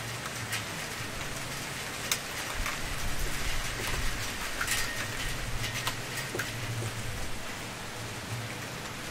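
Wood fire burning with a steady hiss and scattered crackles and pops, a sharp pop about two seconds in and a cluster of pops near the middle.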